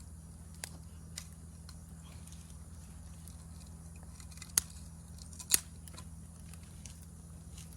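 Wood campfire crackling, with scattered small snaps and two loud sharp pops about halfway through.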